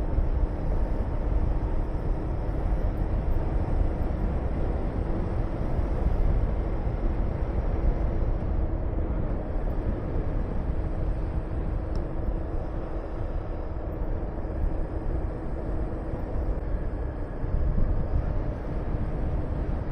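Honda VTR250 V-twin motorcycle engine running at a steady speed while riding, with wind rushing over the microphone.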